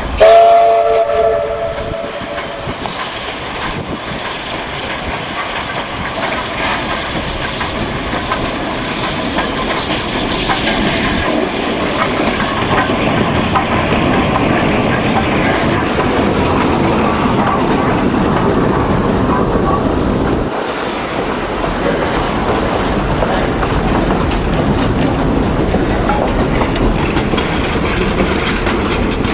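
Steam train whistle blast of about a second and a half at the start, then the train running steadily along the rails with wheel clatter, growing a little louder, with an abrupt shift in the sound about two-thirds of the way through.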